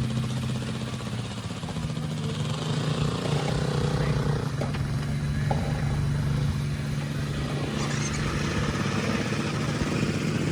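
Jeep engine running steadily under load at low speed as the Jeep is driven at a rock ledge on an off-road trail.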